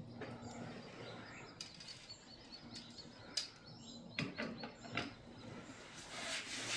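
Small birds chirping faintly, broken by a few sharp clicks, with a low steady hum underneath.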